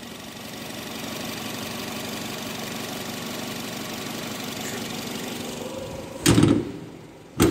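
2013 Nissan X-Trail engine idling steadily under an open bonnet, running smoothly with no odd noises: a healthy engine. Near the end the bonnet is brought down and shut with two loud thumps, the second the sharpest.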